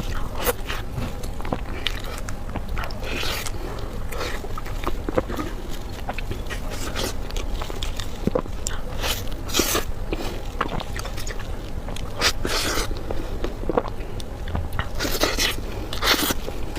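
Close-miked mukbang eating sounds: a person biting and chewing food in irregular, short, noisy mouthfuls with small clicks in between.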